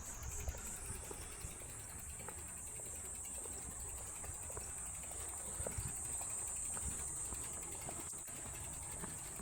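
Insects trilling in a steady, high-pitched drone; the sound pulses rapidly for the first second or so, then settles into one continuous tone.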